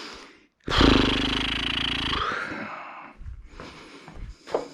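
A person's long, loud sigh starting about a second in and trailing off over a couple of seconds, followed by a few faint knocks of parts being handled.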